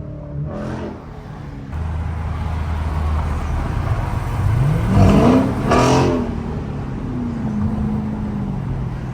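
A V8 car engine running with a low rumble, then revving up about four seconds in, holding high, and easing back down near the end.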